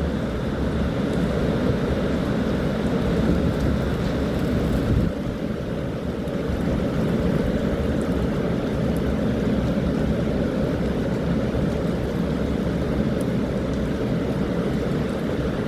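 Strong typhoon wind blowing, heard as a steady low rumble of wind noise on the microphone that eases slightly about five seconds in.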